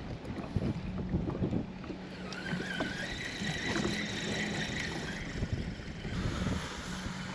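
Wind buffeting the microphone over water noise around a small boat, with a steady low hum that cuts in and out. A thin whine rises slightly in pitch for about three seconds in the middle.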